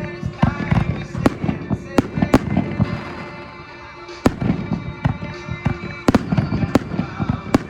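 Fireworks bursting in a run of sharp bangs at irregular intervals, several close together about six seconds in, with music playing underneath.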